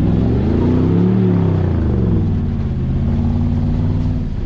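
Land Rover SUV's engine revving up under load on a steep slickrock climb, then dropping back to a steady, even run about two seconds in.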